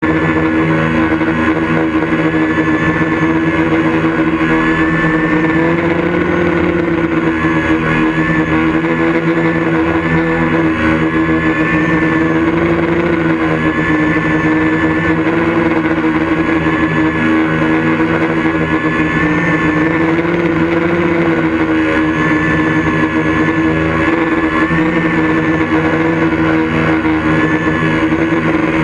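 A steady engine drone, its pitch wavering slightly up and down.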